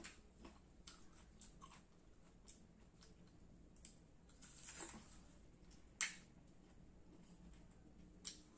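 Faint crunching and chewing of crisp, firm Indian mango, with a louder biting crunch around five seconds in and a few sharp mouth clicks, the sharpest about six seconds in.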